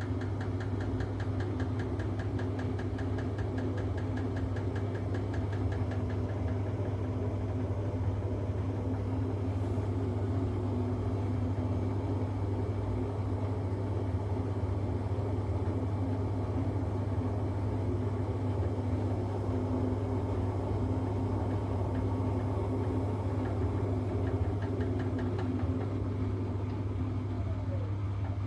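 Siemens washing machine running with a steady low hum and a fast ticking that comes and goes, the strange noise that the owner suspects comes from worn shock absorbers, drum bearings or a failing drum spider.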